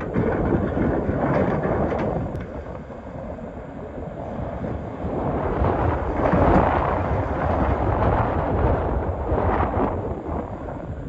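Excavator digging in rock: a heavy rumbling and grinding of rocks scraped by the bucket, with the machine working under load, swelling loudest about six to seven seconds in.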